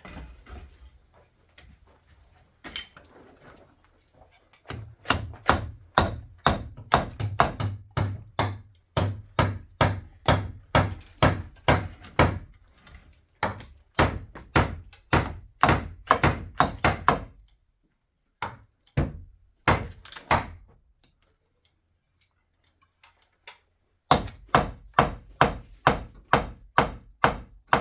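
Hammer blows struck in a steady, rapid series, about two to three a second, in two long runs separated by a pause of several seconds.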